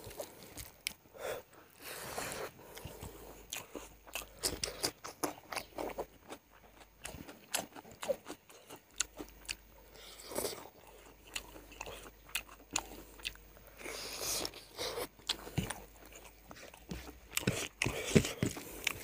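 A person chewing and biting into chicken leg curry with rice, close to the microphone: an irregular run of many short crunching clicks.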